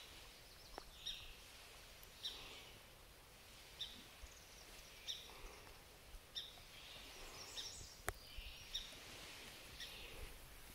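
Faint outdoor quiet with a bird chirping, one short high chirp about every second and a half. A single sharp click about eight seconds in.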